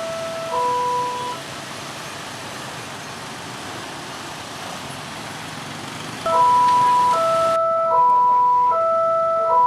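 Railroad level-crossing warning alarm sounding a two-note electronic tone that alternates about every 0.7 seconds. It stops about a second in, leaving a steady noise, and comes back louder about six seconds in.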